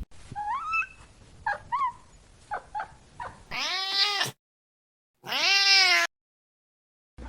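Domestic cats meowing: a run of short, high, rising mews in the first three seconds, then two long, loud meows of about a second each, separated by silence.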